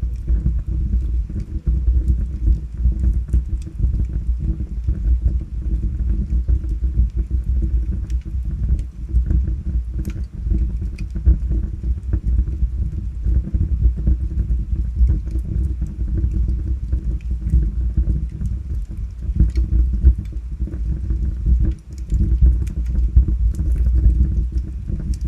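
Wood fire burning in a fireplace: a steady low rumble from the flames, with scattered sharp crackles and pops from the logs.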